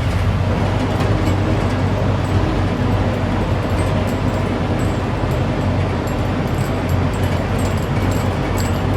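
Truck engine running steadily with road noise, a constant low drone and no change in pitch.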